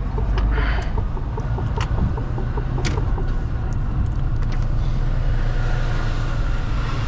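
Mercedes-Benz Actros truck's diesel engine running with a steady low rumble, with a few sharp clicks in the first three seconds.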